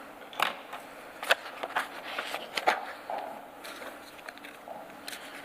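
Paper rustling with light clicks and knocks, as of pages being leafed through in a file binder.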